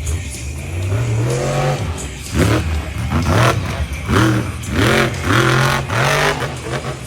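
Monster truck's supercharged V8 engine revving hard in repeated bursts, rising and dropping in pitch about five times in the second half.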